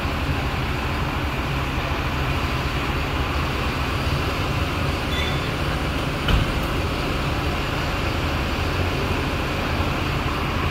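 Steady low rumble of heavy diesel engines running, with a single sharp knock about six seconds in.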